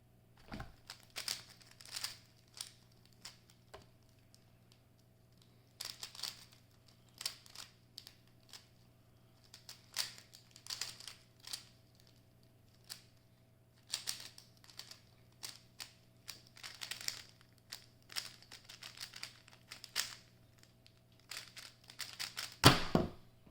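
Speedcube being turned fast during a solve: rapid plastic clicking and clatter in bursts of a second to several seconds, broken by short pauses. A louder thump comes near the end.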